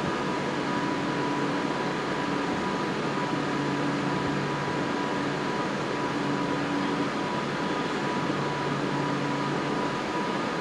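Stationary Avanti West Coast Class 390 Pendolino electric train humming at the platform while it waits to depart. Its auxiliary and ventilation equipment makes a steady drone with a few steady tones, one lower tone coming and going every second or two.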